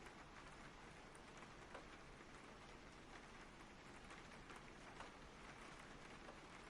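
Faint, steady rain falling, with scattered drops tapping now and then.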